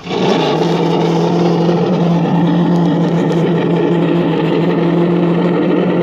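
Steady vehicle noise at speed: a constant-pitch drone over rushing wind and road noise. It starts abruptly and holds level.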